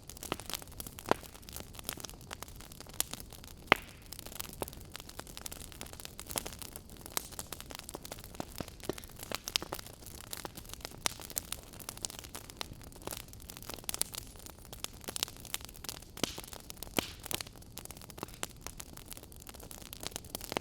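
Wood fire crackling in a fireplace: irregular sharp pops and snaps over a steady soft hiss, the two loudest pops about a second in and just under four seconds in.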